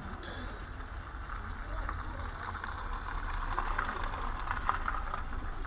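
Steady low rumble of a car's engine and road noise inside the cabin, picked up by a dashboard camera, with a crackly higher hiss that grows louder from about two seconds in.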